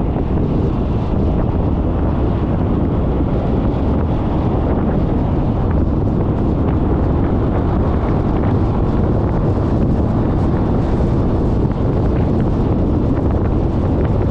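Wind buffeting the microphone of a GoPro mounted on a moving Suzuki Burgman 400 scooter: a steady, loud low rumble of rushing air, with the scooter's riding noise underneath.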